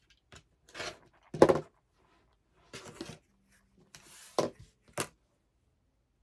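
Handling noises at a sewing table: a handful of short knocks and rustles as fabric pieces and cutting tools are picked up and set down, the loudest about a second and a half in.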